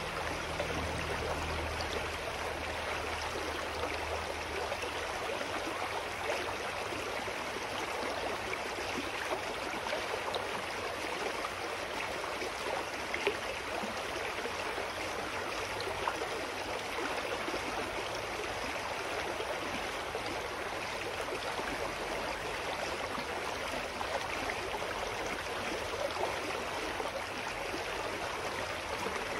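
Clear, shallow mountain stream running over rocks: a steady rushing and babbling of water that neither rises nor falls.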